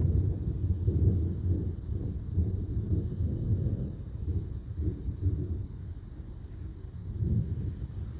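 Low rolling thunder rumbling, strongest in the first few seconds and easing off after about six seconds, over crickets chirping in a steady high pulsing drone.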